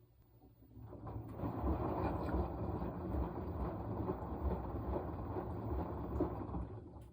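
Washing machine in its wash cycle: the drum starts turning about a second in, churning for about six seconds with a low rumble, then stops.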